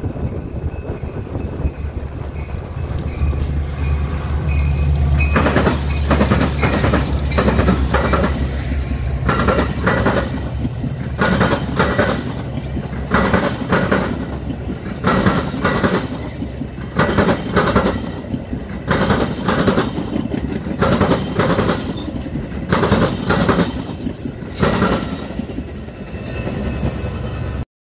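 Metra commuter train passing close by. The diesel locomotive's engine rumbles steadily as it approaches, then from about five seconds in the bilevel cars' wheels clatter and click over the rail joints as the train rolls past.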